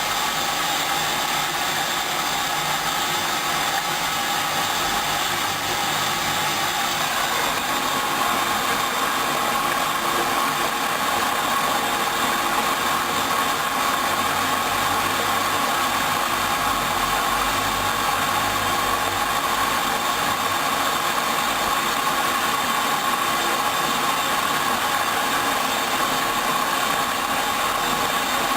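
Hoover Dynamic 10124 DP washing machine running its first rinse: a steady mechanical noise, with a steady higher tone coming in about eight seconds in.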